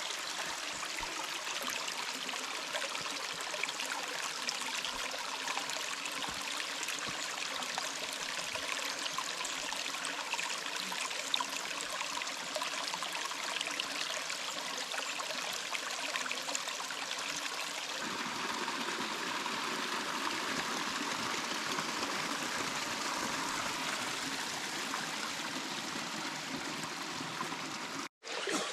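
Running water from a stream, a steady rushing and trickling. About two-thirds through it turns fuller and deeper, and it breaks off for a moment near the end.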